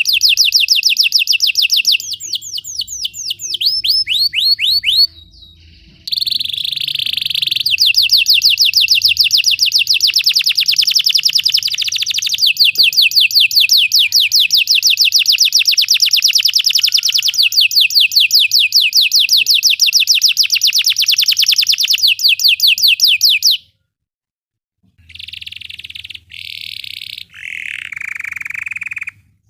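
Belgian canary singing a long song of fast trills, rapid runs of repeated high notes, with a brief break about five seconds in. The song stops for about a second near three quarters of the way through, then resumes in a few short phrases, one of them falling in pitch.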